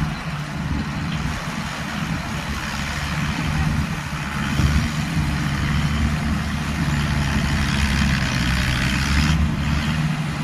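An engine running steadily at a constant speed, with a band of mechanical clatter above the hum that drops away near the end.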